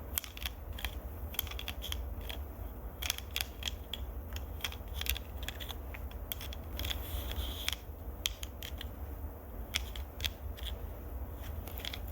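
Close-miked ASMR triggers: irregular sharp clicks and scratches right at the microphone, several a second, over a low handling rumble.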